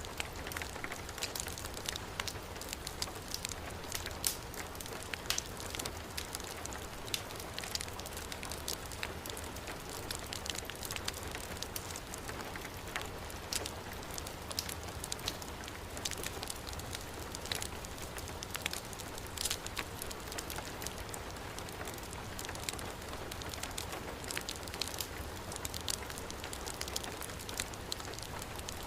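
Heavy rain falling steadily, mixed with a burning wood fire, with many sharp crackles and pops scattered throughout.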